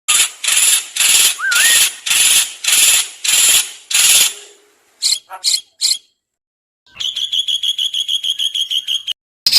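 Songbird calls: a run of about seven harsh, rasping notes roughly half a second apart, then three short sharp notes. After a pause comes a fast, even trill of about eight notes a second, and another fast series starts near the end.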